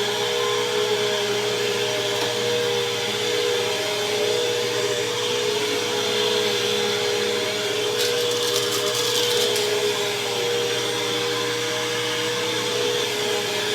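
BISSELL CleanView Helix bagless vacuum cleaner running steadily: a constant motor hum with a steady whine. About eight seconds in there is a brief run of sharp clicks.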